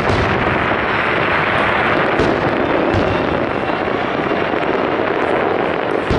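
Fireworks going off: a dense, continuous crackle with a few sharper bangs through it.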